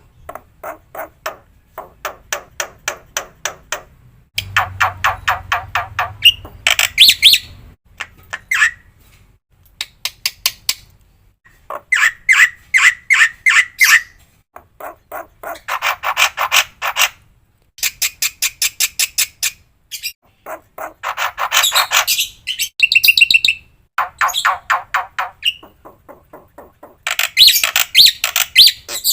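Black-winged myna (jalak putih) singing: phrase after phrase of rapidly repeated harsh notes and chatter, each burst a second or two long and changing in pattern from one to the next. A short clear whistle comes a little over twenty seconds in.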